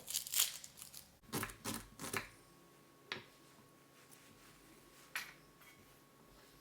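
An onion being handled and cut with a knife on a cutting board: irregular crackly knife-and-board sounds for about the first two seconds, then a couple of single clicks.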